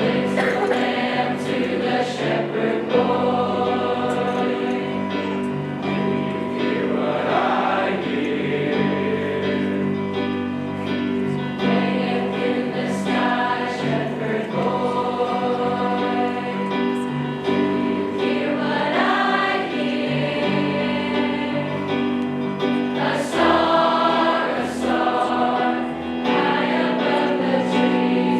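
A choir singing a song with sustained chords, with steady low accompaniment beneath.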